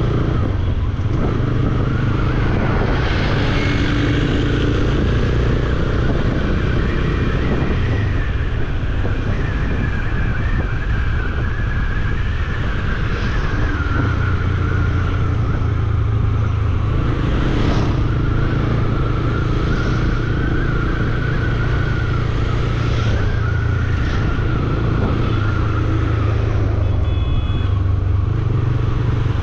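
Bajaj Dominar 400's single-cylinder engine running steadily while riding through city traffic.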